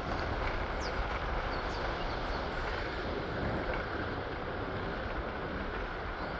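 PATH train running, a steady rumble of wheels on track with a few faint high squeaks in the first half.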